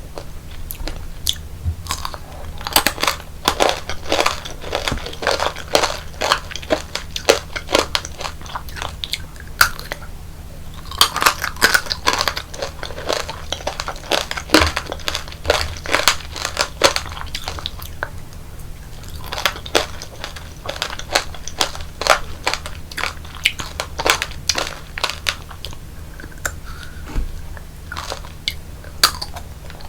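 Close-miked crunching and chewing of tanghulu: the hard sugar shell on candied fruit cracking between the teeth in repeated bursts with short pauses.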